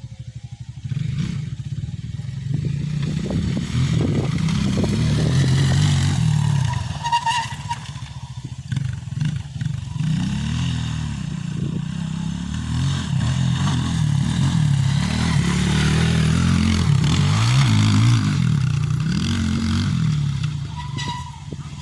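Motocross dirt bike engine running, its pitch rising and falling again and again as the throttle is opened and closed.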